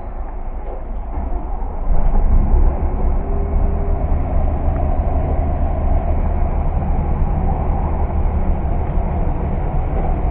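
Mercedes-Benz bus diesel engine running with a deep, steady rumble that grows louder about two seconds in.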